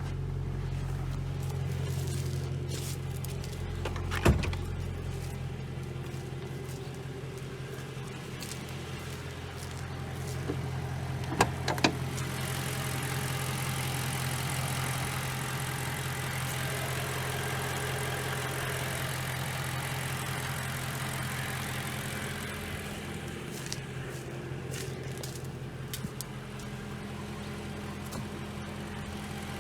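BMW E92 M3's S65 4.0-litre V8 idling steadily, with a few sharp clicks about four seconds and twelve seconds in.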